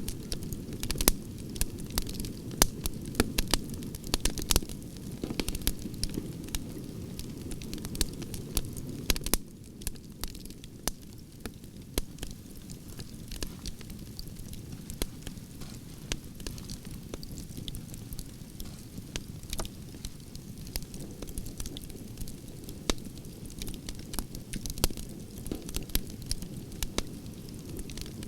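Firewood burning: a steady low rush of flame with frequent sharp crackles and pops from the logs. The crackling thins out and grows a little quieter about nine seconds in.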